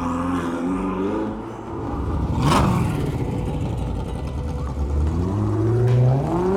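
Loud sports car engine accelerating hard, its revs climbing and dropping through gear changes, with a brief sharp noise about two and a half seconds in and the revs rising steeply again near the end.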